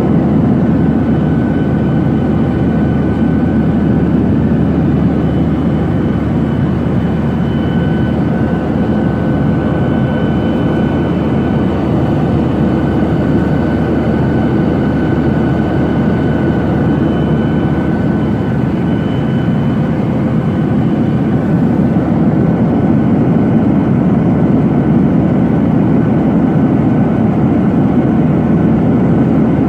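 Steady cabin noise inside a Boeing 737-800 airliner: an even low rumble with a faint high whine that rises in the middle and fades again.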